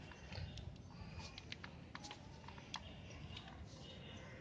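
Faint, irregular light clicks and taps of an 8 mm box spanner working the bolts of a motorcycle's front sprocket cover.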